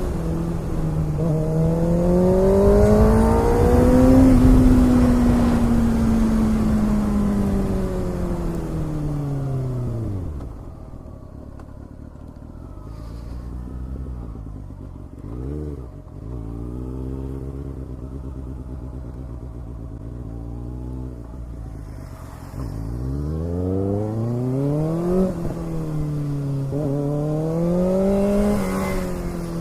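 Kawasaki ZX-6R's inline-four engine with an Ixil exhaust on the move: revs rise and fall through the gears, settle to a steady idle for about ten seconds midway with one short throttle blip, then climb again in repeated rising pulls as the bike gets under way.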